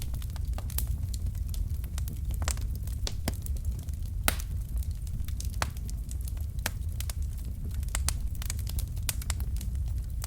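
Wood fire burning in a fireplace: a steady low rumble of flame with frequent sharp, irregular crackles and pops from the burning logs, one louder pop about four seconds in.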